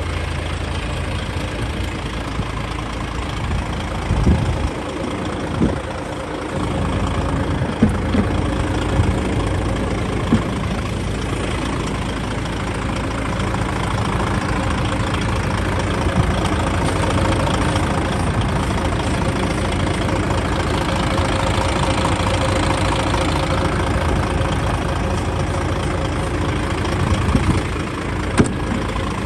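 DAF 105.460 tractor unit's 12.9-litre PACCAR MX six-cylinder diesel running steadily at idle, with a few short knocks in the first third and again near the end.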